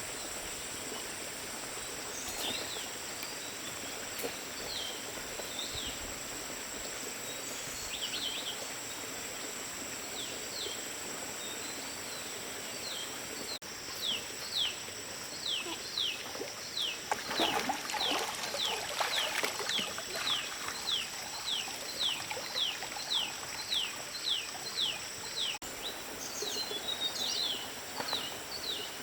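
A bird calls a short falling note over and over, sparsely at first, then about two a second, over a steady high-pitched drone.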